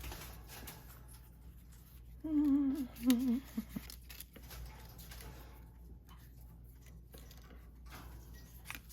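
A woman humming briefly, two short phrases with a wavering pitch, about two seconds in. Faint small clicks and rustles of paper being handled sound around it.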